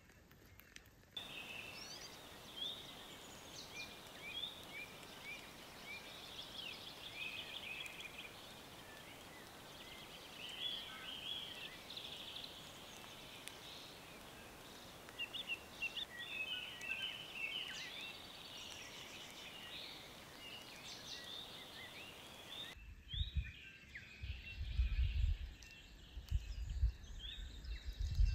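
Birds singing: many short chirps and whistled calls over a steady background hiss. For the last few seconds, low rumbling bumps come in under the birdsong.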